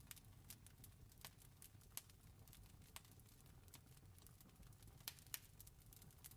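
Campfire crackling faintly, with irregular sharp pops and snaps, a few louder ones about two, three and five seconds in, over a low steady rumble.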